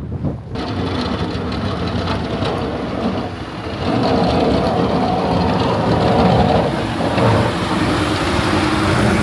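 A motor vehicle running close by, with a dense steady noise that grows louder about four seconds in.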